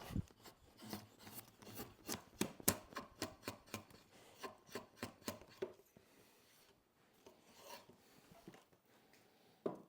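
Draw knife shaving a green-wood spoon handle: a quick run of short slicing strokes for about six seconds, then a few fainter ones and a single sharp knock near the end.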